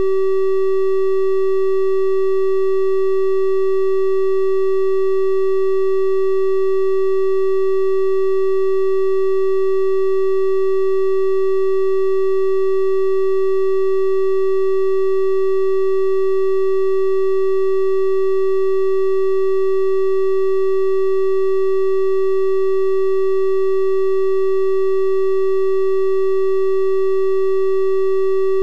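Synthesized 384 Hz triangle-wave test tone held steady at one pitch, a pure hum with faint higher overtones.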